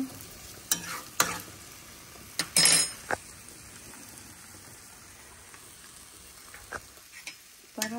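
Food sizzling as it fries in a hot pan, with several light knocks and clicks of a utensil against the pan. A brief, louder noisy burst comes about two and a half seconds in.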